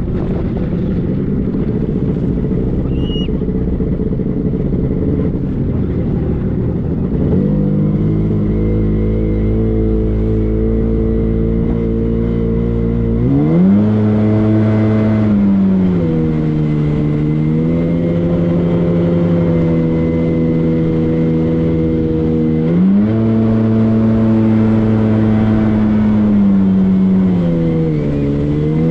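Motorboat engine running under way, with rushing wind and water noise at first. From about seven seconds in the engine's steady hum comes through clearly, and its revs rise and fall twice.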